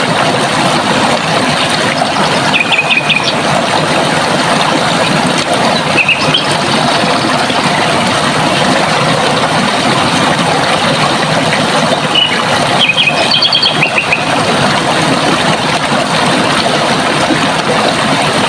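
Running water rushing steadily, with small birds calling a few times over it in short runs of quick, repeated high chirps.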